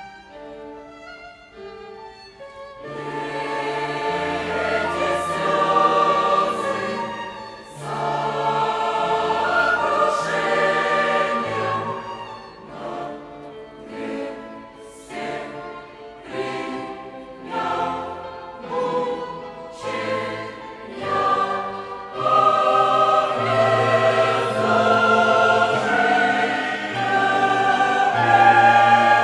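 Church choir singing a hymn with a violin ensemble accompanying in sustained chords. The violins play softly alone at first, and the choir comes in about three seconds in.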